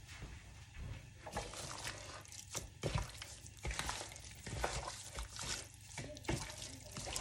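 Cut raw chicken being mixed in a bowl with olive oil, Worcestershire sauce and dry seasonings. Irregular wet mixing sounds pick up about a second in.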